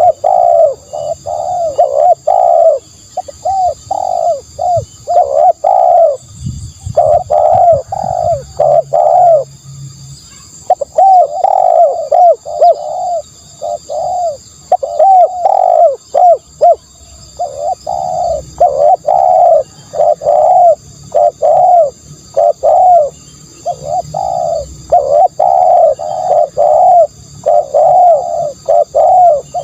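Spotted doves cooing: a fast, unbroken run of short coo notes, pausing briefly about six, ten and seventeen seconds in.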